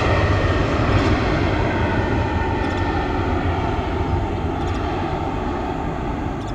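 Boeing 737 MAX jet engines passing close by, a loud steady rush with a faint whine that slowly eases off as the aircraft moves away.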